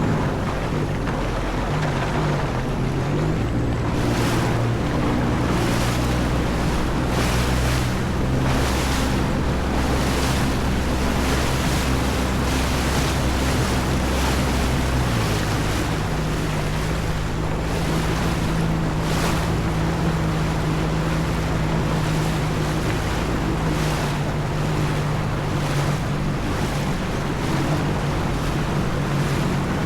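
Jet ski engine running under way, its note shifting about three seconds in and again about halfway through, with repeated smacks of the hull and spray on the water and wind buffeting the microphone.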